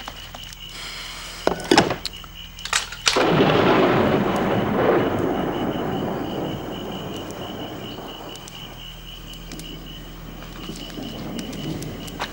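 A few sharp knocks, then a sudden loud rolling rumble about three seconds in that dies away slowly over several seconds. A faint steady high whine runs underneath.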